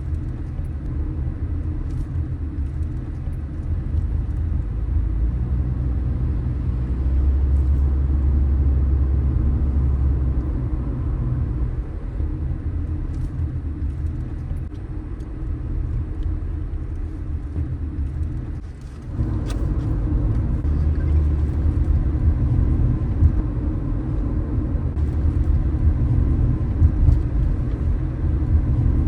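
A car driving on city streets: a steady low rumble of road and engine noise. It swells a little about a third of the way in, dips briefly about two-thirds through, then comes back louder.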